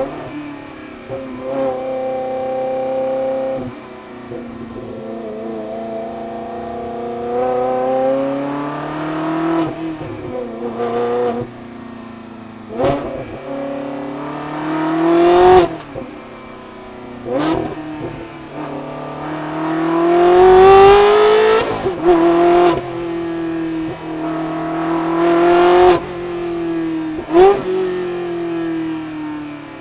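A Ferrari 360 Modena's 3.6-litre V8 through a Capristo aftermarket exhaust, revving up and dropping back several times. The longest and loudest climbs come about halfway through and about two-thirds of the way through.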